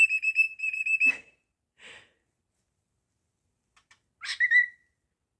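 Cockatiel whistling: a held, slightly wavering whistle for about a second, a short soft chirp, then a quick rising whistled note near the end.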